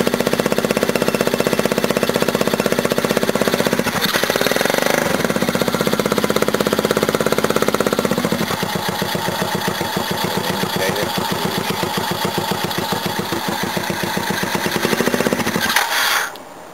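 Mini bike's small engine running through a straight pipe with no muffler, warming up at a fast idle whose firing slows about eight seconds in, then cutting out near the end: a stall the owner blames on it running a bit lean.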